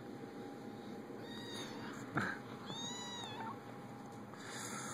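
A kitten mewing twice, short high-pitched mews that rise and fall, with a soft knock between them.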